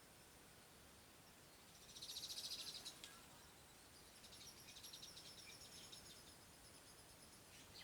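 A small bird's faint, high, rapid trill, twice: a short louder one about two seconds in, then a longer, weaker one.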